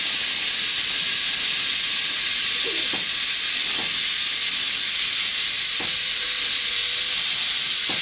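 Compressed air hissing steadily from an air hose chuck as a flat pickup truck tire is inflated, with a few faint knocks.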